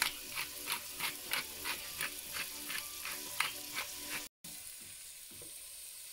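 Squash and onion sizzling as they fry in a stainless pot, with a pepper mill grinding over it in crunchy strokes about three a second for the first four seconds. The grinding stops and the sizzle goes on more quietly.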